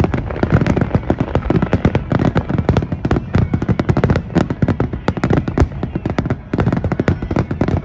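Aerial fireworks going off in a rapid, dense barrage of bangs and crackles, many reports every second, thinning briefly near the end.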